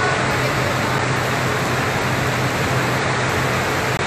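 Heavy rain falling in a steady hiss, with a low steady hum underneath from an idling vehicle engine.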